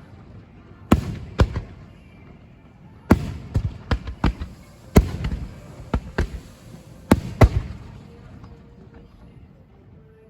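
Aerial firework shells bursting in a quick volley: about a dozen sharp booms over the first eight seconds, each trailing a low rumbling echo, then the bursts stop.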